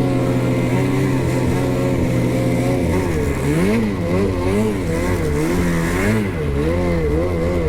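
Ski-Doo 850 snowmobile's two-stroke engine running at a steady pitch, then from about three seconds in revving up and down over and over as the throttle is worked.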